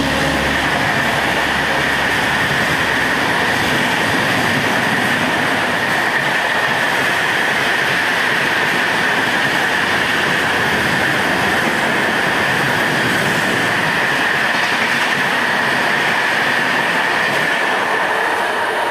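Passenger train coaches running on rails: a loud, steady rush of wheel and rail noise with a high squeal held through it.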